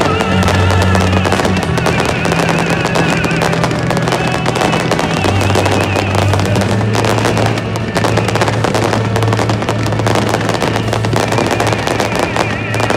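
Fireworks barrage: a dense, continuous run of crackles and bangs, over music with a steady deep bass and a wavering high melody.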